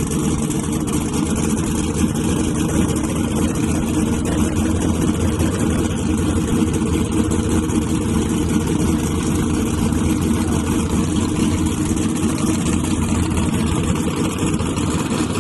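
A drag-race truck's engine idling loudly and steadily, with no big revs.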